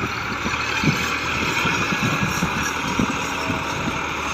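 Massey Ferguson 260 tractor's three-cylinder diesel engine running steadily under load while pulling a disc harrow.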